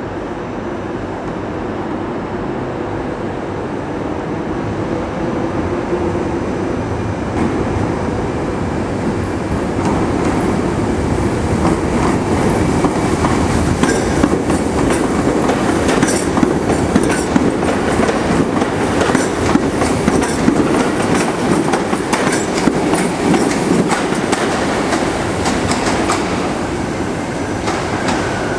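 A Class 314 electric multiple unit runs slowly past along the platform. Its motors and wheels rumble, and its wheels clatter over rail joints and points; the clatter builds about ten seconds in and eases off near the end.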